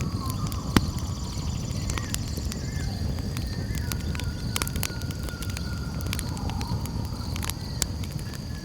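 Campfire crackling, with sharp irregular pops over a low steady rumble. Behind it, a steady high-pitched trill of night insects and faint warbling calls.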